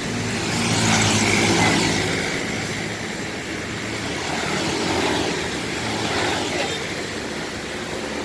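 Diesel engine of a Sugeng Rahayu intercity bus running as the bus pulls out of the terminal, loudest about a second in and then easing off, with a steady hiss of road noise.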